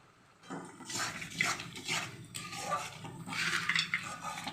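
Spoon or spatula stirring and scraping in a pan of simmering curry gravy, in a run of irregular strokes that begins about half a second in.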